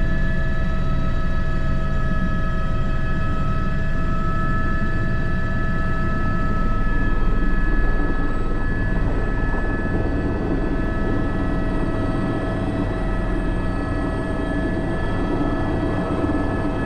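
Airbus H125 helicopter in flight, heard from the cockpit: a steady turbine and transmission whine made of several fixed high tones over a dense low rumble from the rotor and engine.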